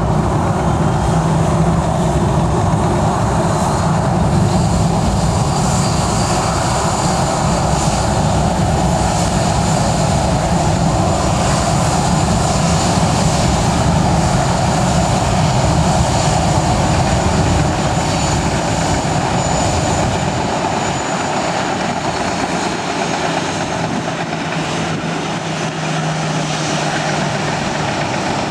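Jet airliner engines running loud and steady, with a thin high whine held throughout.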